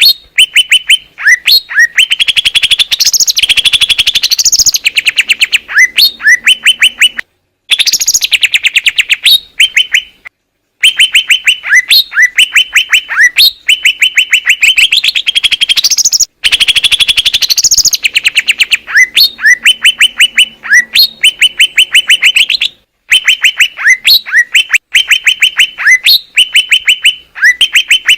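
Cucak ijo (green leafbird) singing loudly: fast trills of rapidly repeated chirping notes in phrases a second or two long, separated by short pauses.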